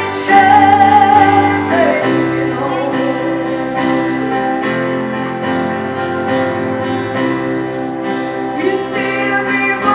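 Gospel song with a woman singing to piano or keyboard accompaniment. The voice holds a note for about the first two seconds, then the accompaniment carries on alone with sustained chords.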